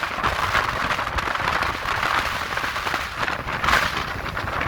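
Sea waves breaking and washing on the shore in a strong wind, a steady hissing, crackling surf, with wind rumbling on the microphone.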